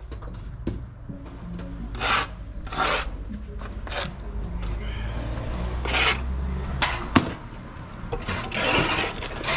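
Bricklaying work: a steel trowel scraping mortar in about six short strokes, with a sharp knock of a brick or trowel about seven seconds in, over a steady low hum.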